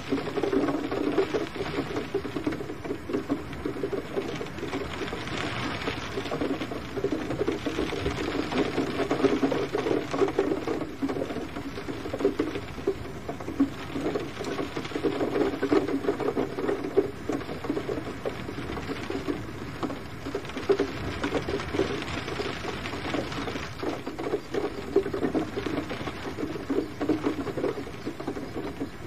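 Steady rain, heard as dense, irregular ticking of drops hitting a surface over a soft hiss, with the level swelling and easing gently every few seconds.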